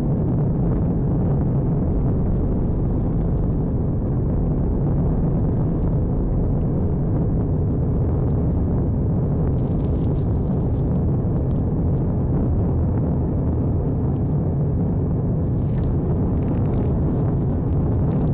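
A steady, deep rumble with faint crackles.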